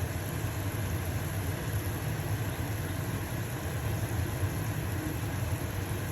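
Stovetop range hood fan running with a steady low hum, mixed with the even sizzle of a pancake frying in a pan.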